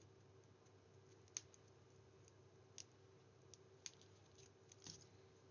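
Near silence: room tone with a faint steady hum and a few soft, isolated clicks from card and paper being handled.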